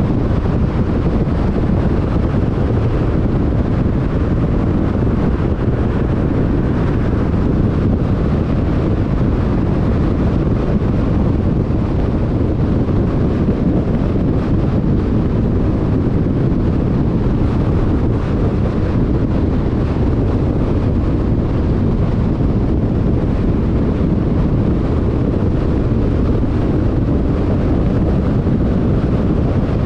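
Steady road noise of a car cruising at freeway speed: tyre and wind noise, mostly low-pitched and unchanging.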